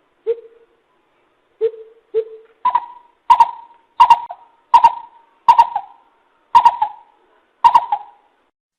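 Coucal (bìm bịp) calling: three soft low hoots, then a run of about seven louder, higher-pitched hoots at a slow, fairly even pace.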